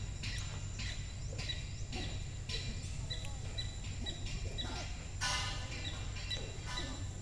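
A bird chirping over and over, short high chirps about twice a second, over a steady low rumble.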